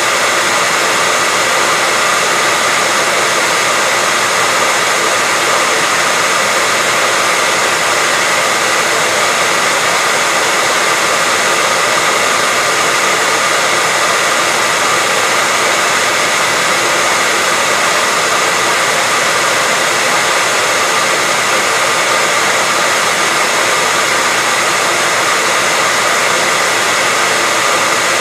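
Hair dryer running continuously at a constant setting: a steady, loud rush of blown air with a faint whine from its motor and fan.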